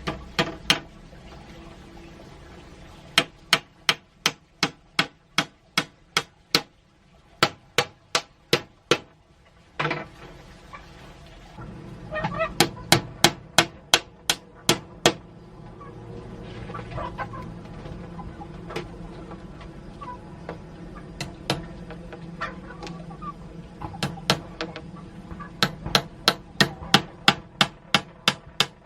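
Runs of sharp, evenly spaced knocks, about three a second, in several bursts with short pauses between them.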